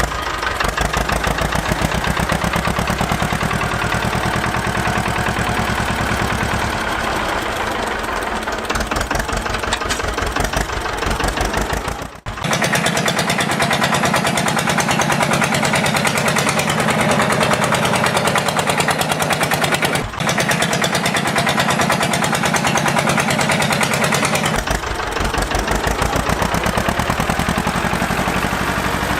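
Tractor engine running with a fast, even chugging beat. The sound breaks off briefly about twelve and twenty seconds in and changes in depth around those points.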